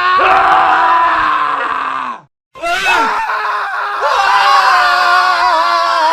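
Men screaming: one long scream falls in pitch at its end and breaks off after about two seconds, then after a brief silence another scream starts and carries on.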